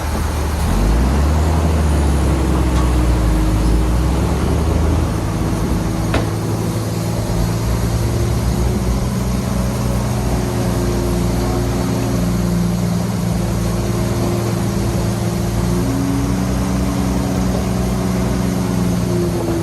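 Large diesel engine of heavy earthmoving machinery picking up revs about a second in, then running steadily, with one sharp clank about six seconds in.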